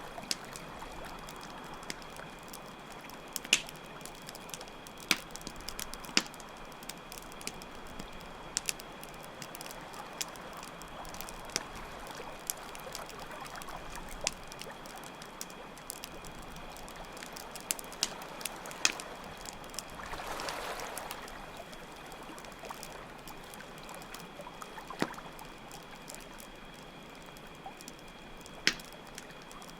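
Campfire crackling with scattered sharp pops over a steady trickle of running water, with crickets trilling steadily throughout. About two-thirds through there is a brief louder rush of water-like noise.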